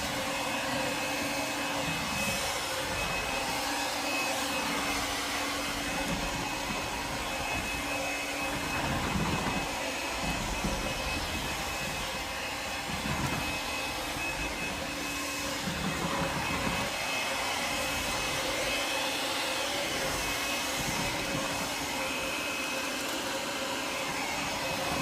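Cordless stick vacuum cleaner running steadily: a rushing hiss of air with a thin, steady high whine from its motor.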